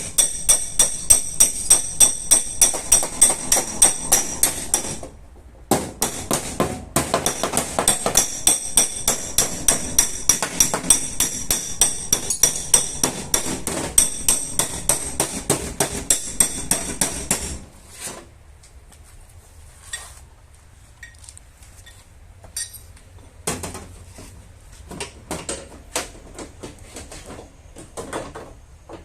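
A hammer striking the steel sheet metal of a car's body panel in a quick steady run of about three blows a second, the metal ringing with each blow. The hammering stops suddenly about 17 seconds in, leaving only scattered lighter taps.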